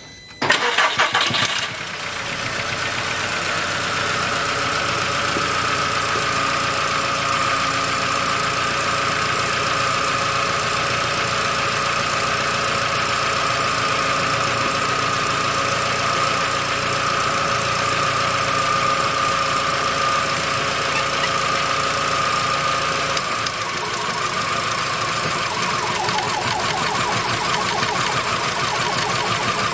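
VW Beetle engine starting about half a second in, then running steadily; its sound shifts a little, slightly quieter, a bit over 23 seconds in.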